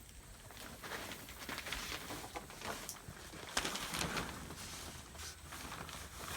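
Plastic vapor-barrier sheeting rustling and crinkling in uneven bursts as it is unfolded and flipped over, with chickens now and then in the background.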